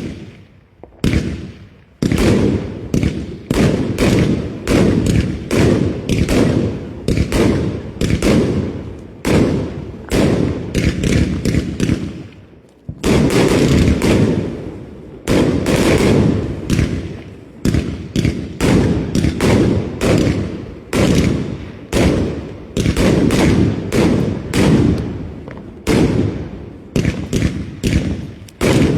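Fireworks going off in a rapid, continuous barrage: loud bangs about two a second, each trailing off briefly.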